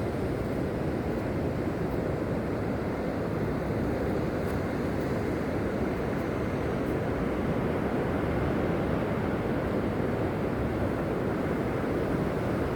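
Steady beach noise of sea surf washing and wind buffeting the microphone, an even rushing sound that holds at one level.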